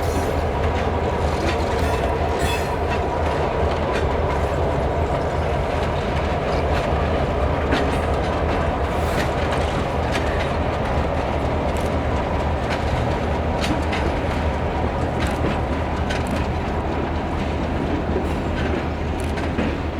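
Escanaba & Lake Superior freight train rolling by, a steady sound of steel wheels on rail with irregular clicks over rail joints.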